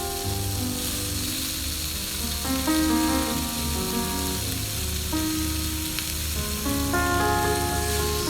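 Food sizzling as it fries in a pan, a steady crackling hiss, under background music of held, stepping notes.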